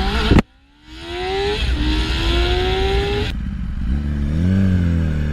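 Motorcycle engine accelerating, its pitch climbing, dropping once at a gear change and climbing again, then settling to a steadier lower note. About half a second in, the sound cuts off abruptly for a moment.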